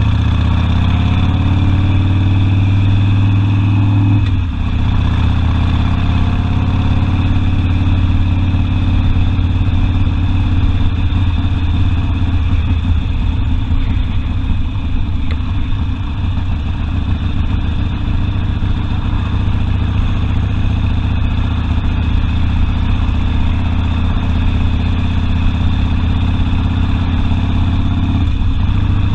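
Harley-Davidson Sportster V-twin engine running steadily under way, with a brief dip about four seconds in.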